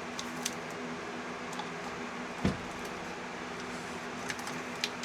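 Scattered small clicks and taps of hands working at stuck plastic fuel-injector electrical connectors on a Pentastar V6, with one dull thump about two and a half seconds in, over a steady background hum.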